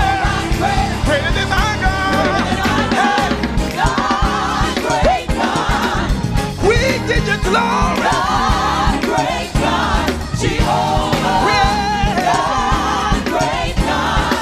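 Live gospel worship music: singers with a choir over a full band with a steady bass line.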